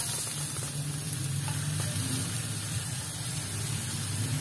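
Wok sizzling as chopped water spinach stems are tipped in over frying fish cake, with a steady low hum underneath.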